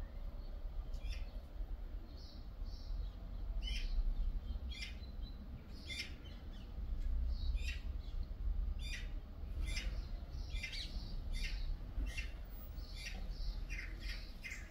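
A bird's short, sharp chirps, repeated irregularly about one or two a second, over a steady low rumble.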